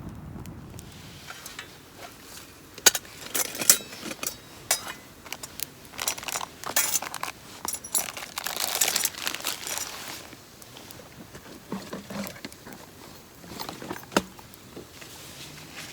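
Camping gear being handled: scattered sharp clicks and clinks with rustling, densest in the middle, and one sharp click near the end.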